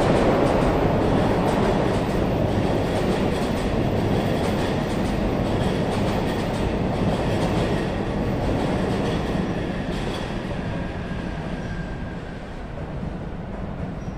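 JR electric commuter train running past on the tracks, a steady rumble of wheels on rail that gradually fades towards the end as the train moves away.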